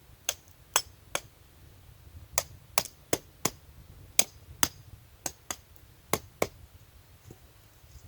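Knife chopping on a cutting board: about a dozen sharp, separate strokes in uneven groups of two to four.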